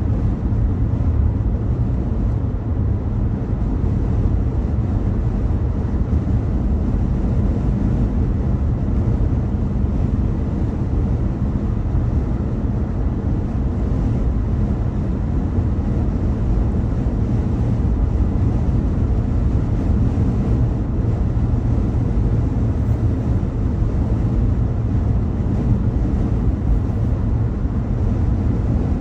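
A car driving along: a steady low rumble of road and engine noise with a faint steady hum.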